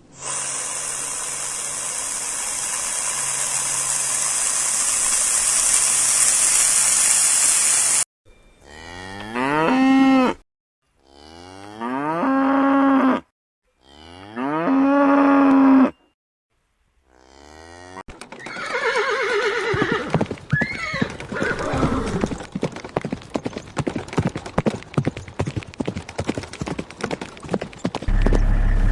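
An animal calling three times, each call about two seconds long, rising in pitch and then held steady. Before the calls comes a long steady hiss-like noise, and after them a rougher, crackly sound with rapid clicking and a short pitched cry.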